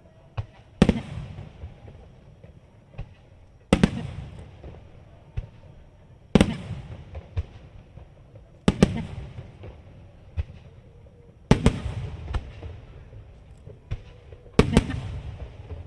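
Aerial firework shells bursting overhead: six loud booms about every three seconds, each trailing off in a rumbling echo, with smaller cracks in between.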